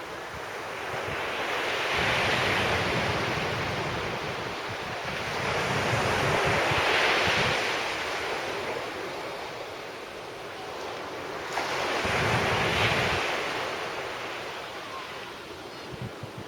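Sea waves breaking and washing up a beach on an incoming tide, three surges of surf about five seconds apart. Wind buffets the microphone throughout.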